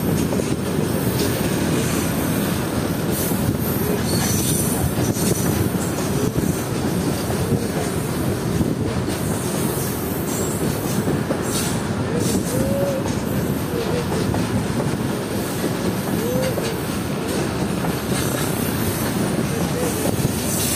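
Loaded freight wagons of a cargo train rolling past, their wheels rumbling steadily on the rails, with brief high-pitched wheel squeals several times.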